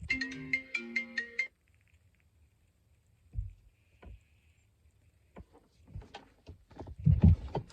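A short electronic jingle of quick stepping notes, about a second and a half long, then scattered clicks and knocks, with a loud low thump near the end.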